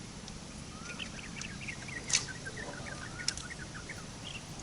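A bird chirping in a quick run of short, twittering calls. A sharp click about two seconds in is the loudest sound, and a smaller click follows about a second later.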